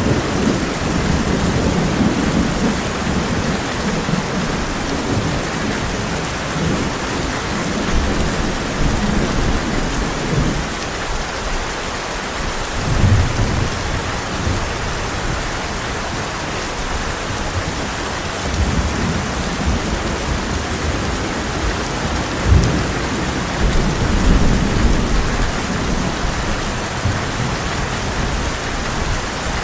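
Heavy rain falling steadily on a tin roof, with rolling thunder: low rumbles through the first ten seconds, a sharper clap about thirteen seconds in, and more rumbling in the second half.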